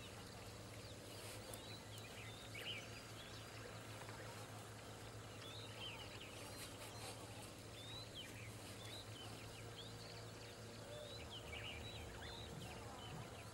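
Birds calling in the background: many short, high chirps and whistles scattered throughout, over a low steady hum.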